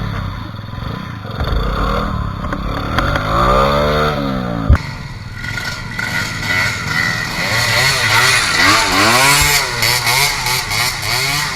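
Trail motorcycle engine revving hard, its pitch rising and falling again and again as the rider works the throttle on a steep climb. A single sharp click about halfway through.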